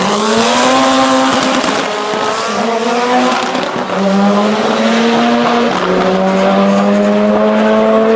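Twin-engine Volkswagen Lupo, powered by two tuned Golf R turbo engines, running flat out at high revs. Its high, steady note drops in pitch in a few steps, about a third, halfway and near the end.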